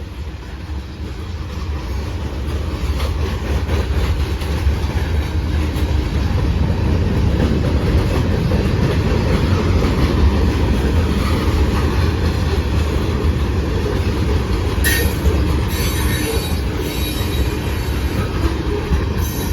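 A CSX freight train rolling past close by, with a steady low rumble of wheels on rail that builds over the first few seconds. Brief high wheel screeches come in the last few seconds.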